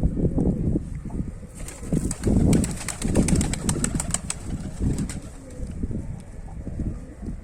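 Domestic pigeons cooing, with a quick flurry of sharp clicks and wing clatter from about one and a half to four and a half seconds in.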